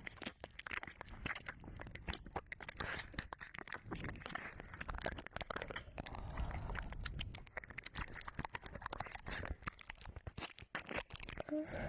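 Wet mouth sounds and tongue licking against the ear of a 3Dio binaural microphone: a dense, irregular stream of small clicks and smacks.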